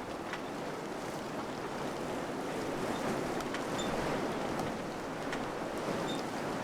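Wind blowing steadily, a full rushing noise, with a few faint ticks scattered through it.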